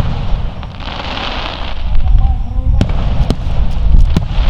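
Aerial fireworks display: continuous deep booming of bursting shells, with a crackling hiss about a second in and again near the end, and several sharp cracks in the second half.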